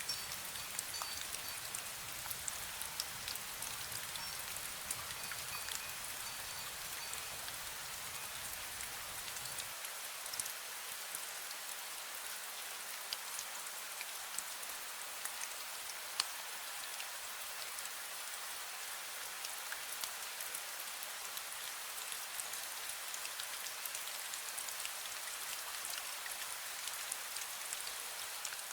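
Steady fine rain, with many separate drop hits over an even hiss. A few faint wind-chime notes sound in the first several seconds.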